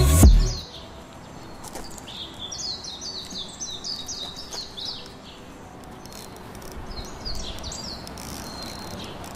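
A loud music sting ends abruptly about half a second in. After that, a songbird calls in repeated runs of quick, falling chirps over a faint outdoor background.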